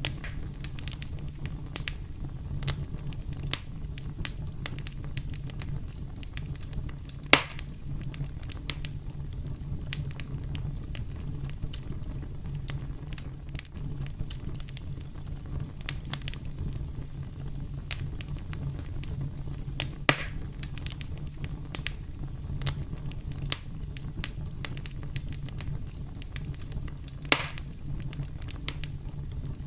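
Campfire burning: a steady low rumble of flames with irregular crackles from the burning wood, and three louder pops, about seven, twenty and twenty-seven seconds in.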